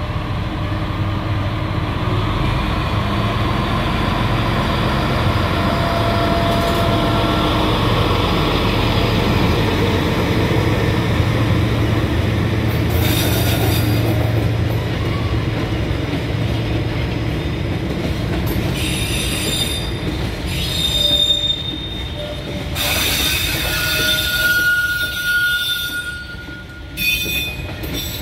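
Diesel-hauled freight train passing close by. For roughly the first ten seconds the locomotive's engine runs with a steady low hum. After that the covered freight wagons roll past, with wheel clatter and several high-pitched wheel squeals in the second half.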